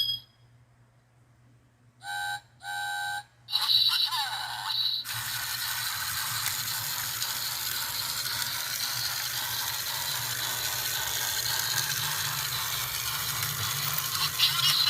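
Motorized toy Gordon train: after a moment of near silence its repaired speaker gives two short whistle toots and a brief sound effect, then its motor and geared axle run steadily as it travels around the track.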